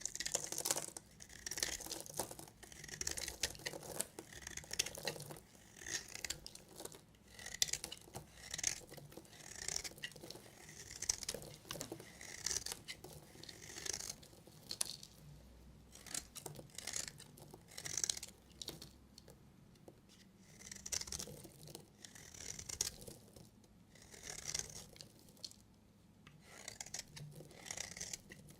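Knife cutting through bars of soap: a string of short scraping strokes, roughly one every second or so, with brief pauses between runs.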